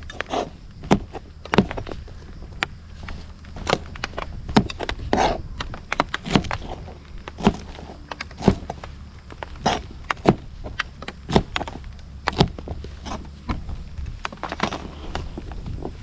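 Irregular sharp knocks and clicks, roughly one a second, over a low steady rumble.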